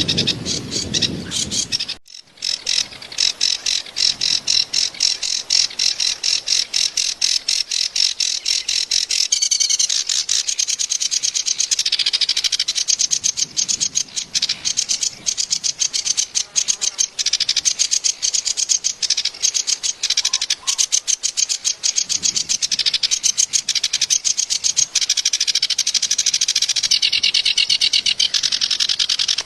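Kerak basi, a reed warbler, singing a harsh, rapid, chattering song. The song breaks off briefly about two seconds in.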